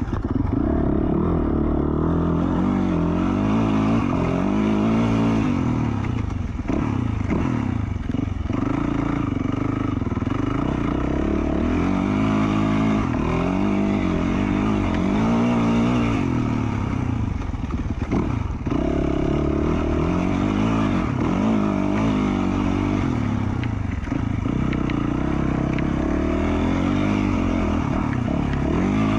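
2020 Yamaha YZ450F's single-cylinder four-stroke engine through an FMF Q4 slip-on exhaust, on and off the throttle along a dirt trail, its pitch rising and falling over and over as the rider accelerates and backs off. It drops off briefly a couple of times.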